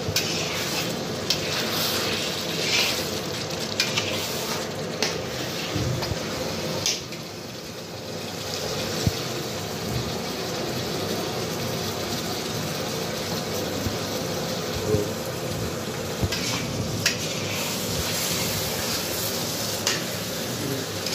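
Keema with marrow bones sizzling as it fries in oil in a large karahi, while a long metal spatula stirs it, scraping and knocking against the pan at irregular intervals. This is the bhunai stage, frying the mince down.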